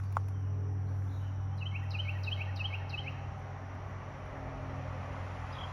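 Steady low hum outdoors, with a small bird giving a quick run of about five repeated chirps through the middle, and a single click just after the start.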